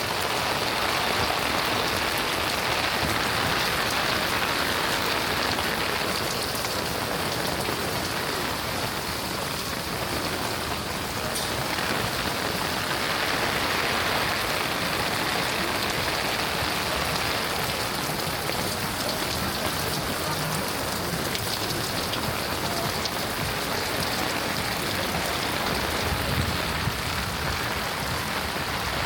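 Steady rain falling, an even continuous hiss with occasional louder single drop hits.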